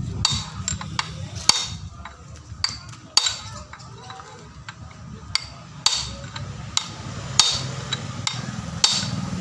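About fifteen sharp, irregularly spaced metal taps with a short ringing tail, a hammer striking steel while the threaded bearing adjusters of a Hino Ranger truck differential are set to take out backlash. A low steady rumble runs underneath.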